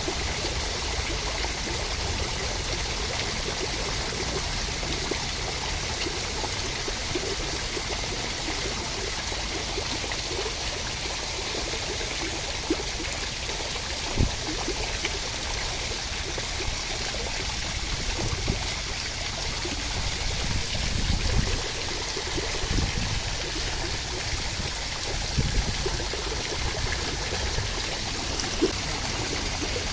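Steady rushing water noise, even and unbroken, with a few soft low thuds in the second half.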